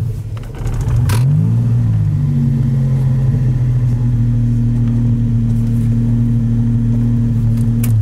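DeLorean DMC-12's PRV V6 engine, a Stage-2 build with electronic fuel injection, running. Its pitch dips and then rises in a short rev about a second in, holds steady, and cuts off at the end as the engine is switched off.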